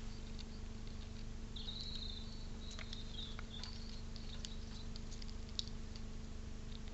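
A distant songbird giving a short, wavering high call about a second and a half in, over faint scattered clicks and scratches and a steady electrical hum.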